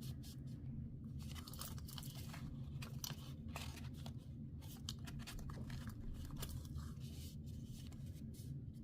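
Cardstock and paper being handled and pressed down by hand: faint rustles, crinkles and many small clicks and scrapes.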